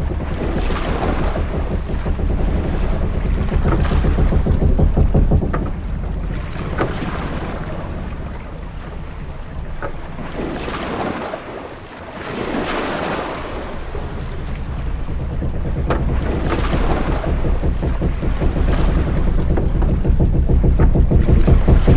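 Ambient sea soundscape of a sailing ship under way: waves washing and surging against the hull, swelling and easing every few seconds over a steady low rumble of wind and sea, with a few faint short knocks or creaks.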